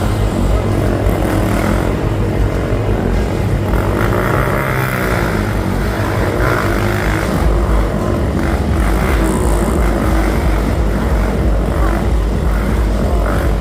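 A steady, loud engine drone with a deep rumble, over the chatter of a crowd.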